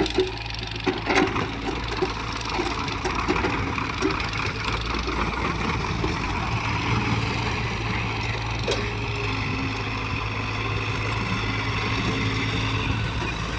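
Heavy diesel engine running steadily under work, with a few sharp knocks in the first couple of seconds.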